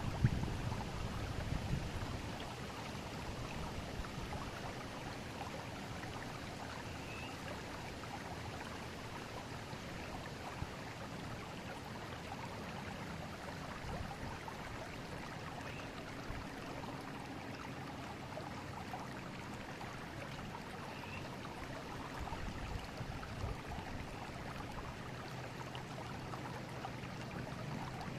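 Forest river flowing: a steady, even rush of water. A louder low rumble dies away in the first two seconds, and a few faint short high chirps come and go.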